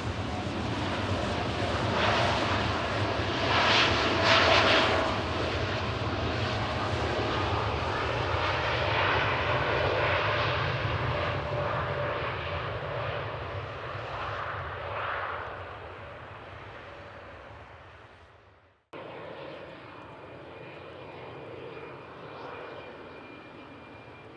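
Jet airliner engines passing close, loudest a few seconds in and then fading away, with a slowly falling tone. The sound cuts off abruptly about nineteen seconds in, giving way to a quieter, more distant jet engine with a faint steady high whine.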